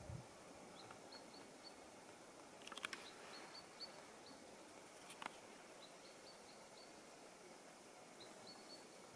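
Quiet forest with a small bird calling faintly, repeating runs of three or four short high chirps every couple of seconds. A couple of brief faint clicks about three and five seconds in.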